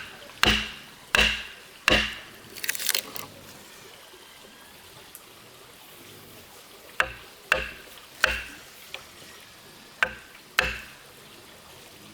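Chopping strikes on wood, sharp blows about two-thirds of a second apart, in two runs with a pause of about four seconds in the middle.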